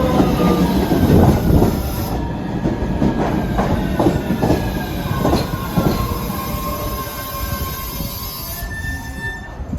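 Red Line subway train pulling into the station, its wheels knocking over rail joints several times and squealing as it slows. The sound fades toward the end as the train comes to a stop.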